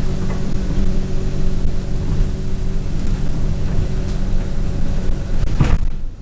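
Inside an Alexander Dennis Enviro200 single-decker bus on the move: a steady low engine drone with road noise and rattling from the interior fittings. A brief, louder rattle or knock comes near the end.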